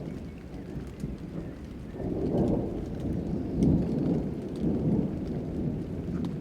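Thunder rumbling over steady rain, swelling about two seconds in and easing near the end, with scattered raindrop ticks.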